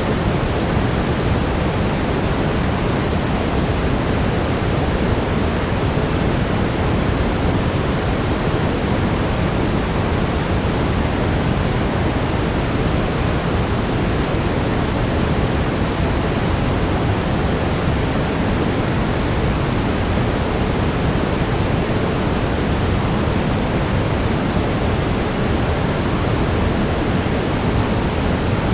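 Steady brown noise: an even, unchanging deep rushing hiss, heaviest in the low end, with no breaks or changes.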